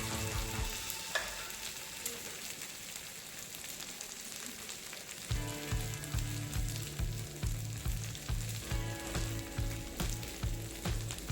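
Chicken sizzler hissing and sizzling steadily on its hot plate. Background music with a steady beat comes in about five seconds in.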